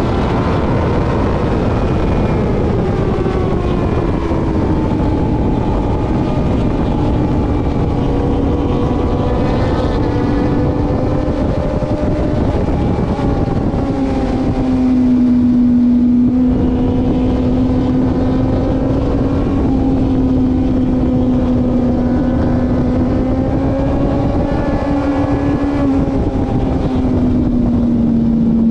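Onboard sport motorcycle engine running hard at high revs under a steady rush of wind. Its pitch falls over the first few seconds, then holds nearly steady with small rises and dips through the rest of the lap section.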